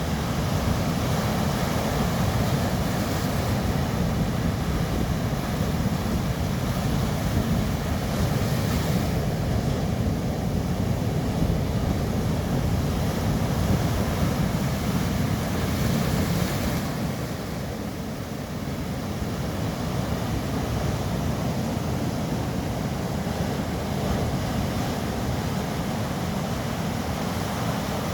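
Sea waves washing onto the shore in a steady rush, swelling and easing slightly, with wind rumbling on the microphone.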